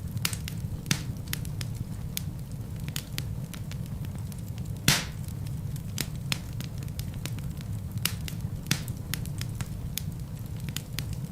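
Wood fire burning in a fireplace: a steady low rumble of flames with frequent sharp crackles of the burning logs, and one louder pop about five seconds in.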